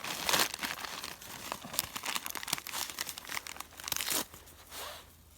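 Newspaper being crumpled and torn by hand, in irregular crackly rustling bursts that die down near the end.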